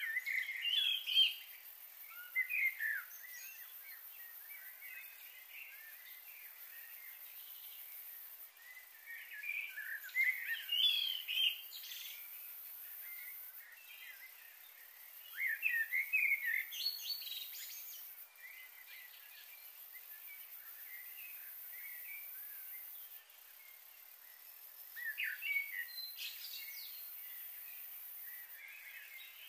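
Birds chirping and calling in short spells of a few seconds, four times over, above a steady faint hiss.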